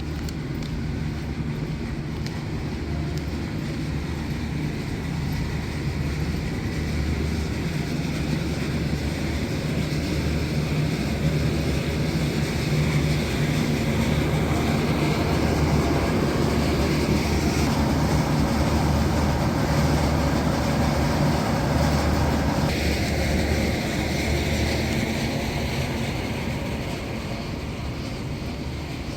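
Street traffic: a heavy vehicle's low, steady hum grows louder, is loudest a little past the middle, then fades as it passes.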